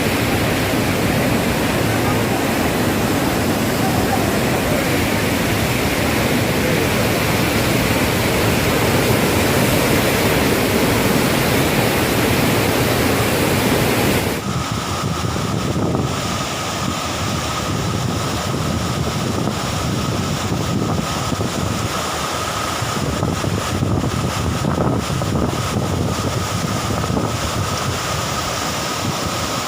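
Steady loud rushing noise. About halfway through it changes abruptly: the high hiss thins out and a steady high whine comes in under the continuing rush.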